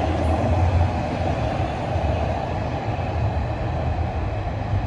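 TTC Toronto Rocket subway train running in the station: a steady low rumble that eases off slightly.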